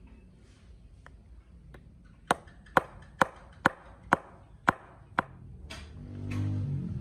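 Hammer blows on metal: about seven sharp, ringing strikes roughly half a second apart. A low rumble rises near the end.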